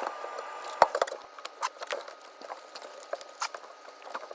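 Scattered light clicks and knocks at an uneven pace, over a faint steady high tone.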